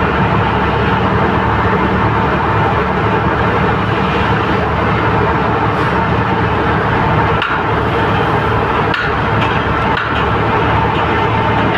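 A large engine running steadily at a constant speed, with a few sharp metallic knocks in the second half.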